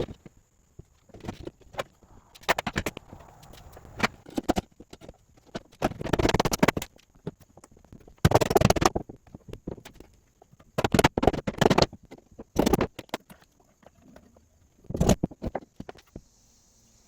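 Bursts of rapid knocking, each about a second long with short quiet gaps between, from work fastening plywood sheets onto the floor platform.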